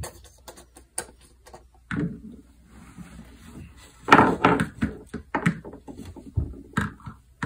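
Hard plastic toy horse figure knocking and tapping on a wooden floor as it is hopped and jumped along, with a louder, denser run of knocks about four seconds in.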